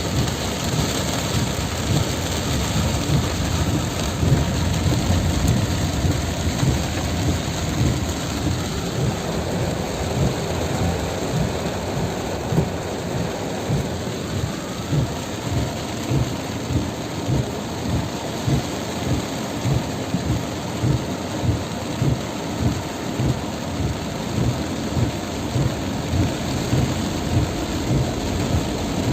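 Heavy rain pouring down, a loud steady hiss with a deep rumble beneath it. From about halfway through, regular low thumps come roughly once or twice a second.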